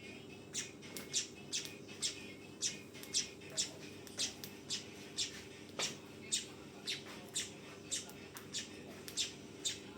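Manyar weaver bird giving its rapid 'trotolan' calling: a long run of short, sharp, high chips at about two a second.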